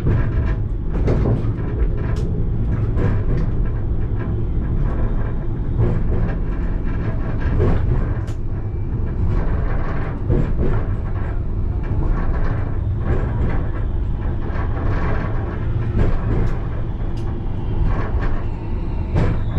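Alstom Citadis tram running on its rails, heard from the cab: a steady low rumble with frequent irregular clicks and knocks.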